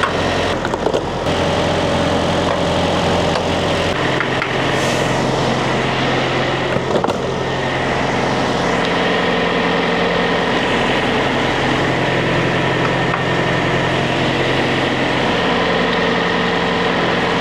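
Heavy truck's diesel engine idling steadily, a constant low hum with a few fixed tones above it.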